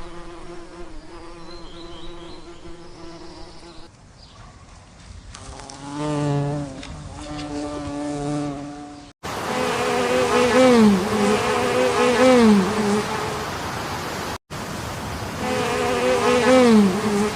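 Flying insects buzzing: a steady pitched hum of wingbeats, in several short takes that cut off and start again suddenly. From about nine seconds in the buzz is louder, and its pitch repeatedly drops and comes back up.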